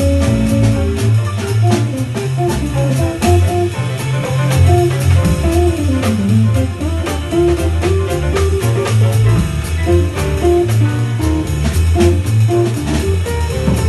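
Jazz band playing, with guitar to the fore over bass and a drum kit keeping a steady beat.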